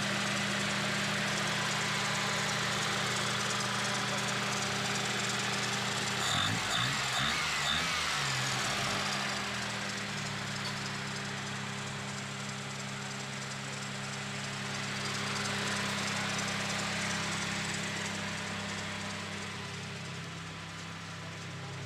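Daihatsu Charade's carbureted engine idling steadily, running smoothly now that its hard-starting fault has been fixed with new high-tension leads and a cleaned carburetor and fuel system. Four short high pips sound about six seconds in.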